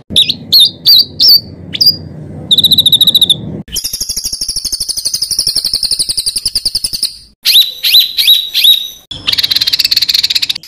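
Songbird calls in abruptly cut segments: sharp, high down-slurred whistled notes, a brief fast trill, then a long buzzy rapid trill for about three seconds. More down-slurred notes follow, and another buzzy trill starts near the end. These are harsh, rapid 'tembakan' phrases of the kind used to train competition songbirds.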